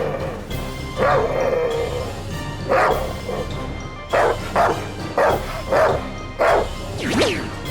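A dog barks and yips about eight times in short separate bursts, over background music. A falling, whistle-like glide sounds near the end.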